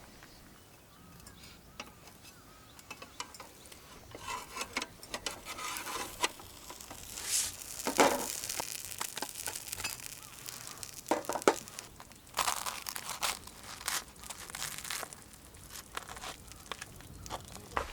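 Crinkling and rustling of something being handled, with scattered clicks and knocks; the loudest rustles come about eight and eleven seconds in.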